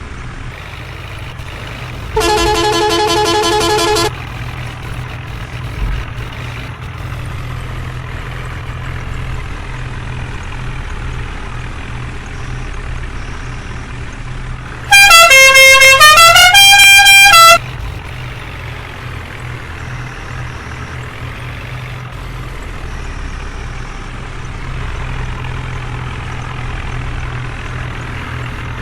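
Diesel engine running steadily at low revs, with two vehicle horn blasts: a wavering one about two seconds in, and a much louder musical horn playing a short tune of changing notes for about two and a half seconds around the middle.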